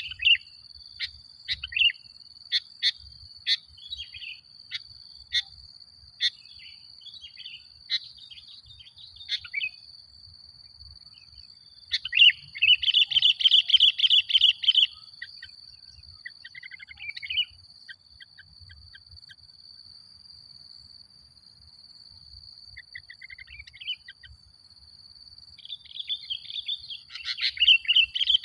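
Sooty-headed bulbul (kutilang) calling: a string of short sharp chirps through the first ten seconds, a dense burst of fast song about twelve seconds in, and more song building near the end. A steady high-pitched whine runs underneath.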